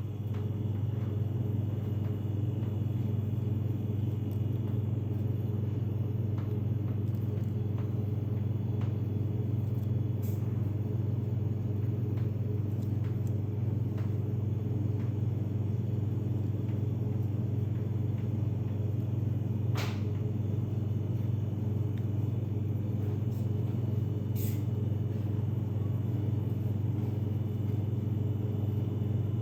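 Steady low electric motor hum that comes on right at the start and runs evenly throughout, with a few faint clicks over it.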